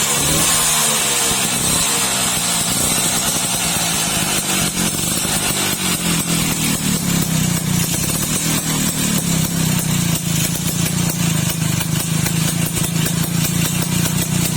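Old Vespa scooter's two-stroke engine running through an aftermarket racing exhaust. The revs fall away in the first couple of seconds, then it idles with a steady, fast pulsing beat.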